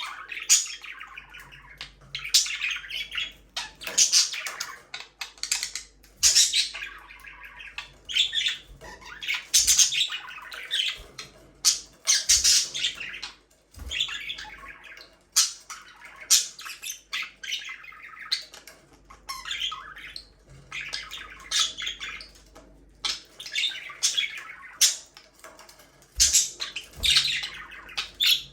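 Budgerigars chirping and chattering, with short repeated calls and squawks coming every second or so.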